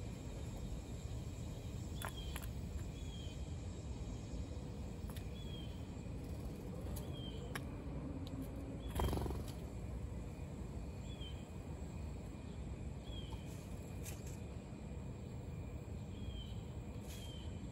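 A small bird repeating a short, high, slightly falling chip note about every second or two, over a steady low rumble. A few sharp ticks are scattered through it, and one louder knock comes about nine seconds in.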